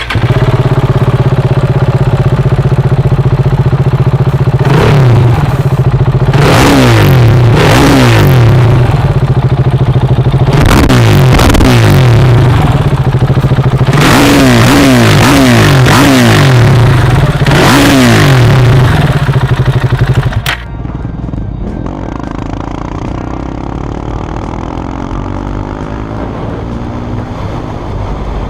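KTM 690 Duke single-cylinder engine breathing through an Akrapovic full-system titanium exhaust, idling loudly and blipped repeatedly with quick rising-and-falling revs through the middle. About 20 seconds in the engine sound cuts off abruptly, leaving a quieter steady noise.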